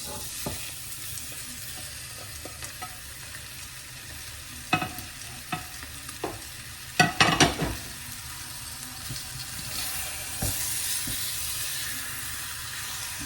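Chicken thigh pieces sizzling in hot oil in a saucepan as they are stir-fried with aromatics, with a few sharp knocks and scrapes of the stirring utensil against the pan around the middle.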